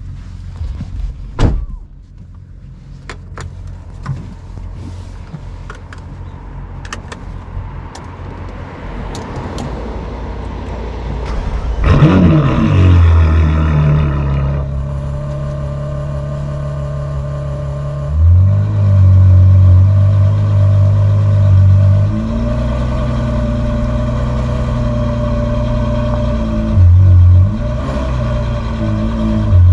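A thump and some clicks, then a Ferrari 812 GTS's 6.5-litre V12 with a Novitec exhaust starts about twelve seconds in, flaring up loudly before settling to a steady idle. The idle gets much louder at the same pitch for a few seconds twice, then again near the end.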